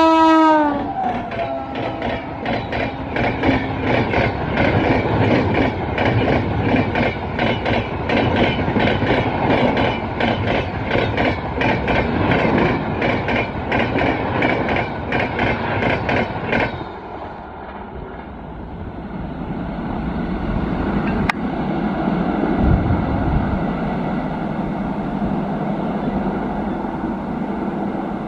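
An express train passing at speed. Its horn ends with a falling pitch right at the start, then its wheels clatter rapidly and evenly over the rail joints for about sixteen seconds and stop suddenly. A steadier, quieter rumble follows, swelling and then fading.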